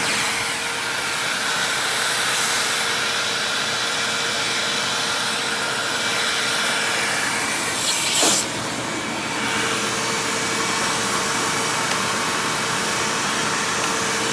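Hoover WindTunnel Self-Propelled upright vacuum, fitted with an older Maytag-era motor, running steadily in tool mode with the dusting brush on the hose, a constant motor whine over a rush of air. A brief knock about eight seconds in, after which the whine's tone drops out for a second or so before returning.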